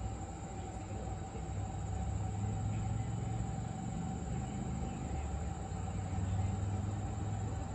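Low, steady rumble of a train on the rails, with a faint steady whine above it.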